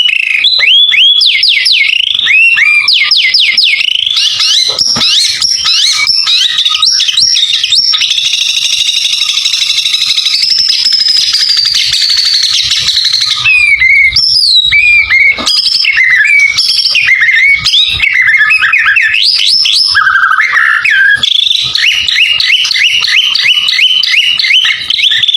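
White-rumped shama (murai batu) singing loudly without a break: fast runs of sharp, rising whistled chirps, with a long held, wavering whistle about a third of the way in, and quick repeated notes near the end.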